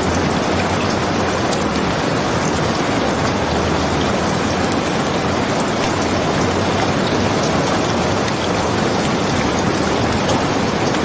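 Steady rain falling, a dense even hiss that does not let up, with faint scattered ticks of drops.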